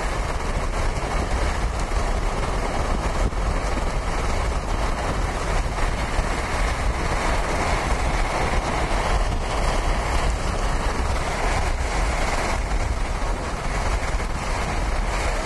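Steady wind rushing and buffeting the microphone with a low rumble, over a storm-chase vehicle's running engine.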